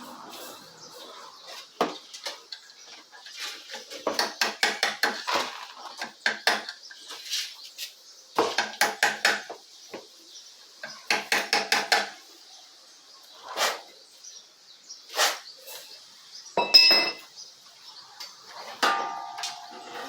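A metal utensil clinking against a dish: three runs of quick taps, single clinks between them, and a short ringing clink near the end.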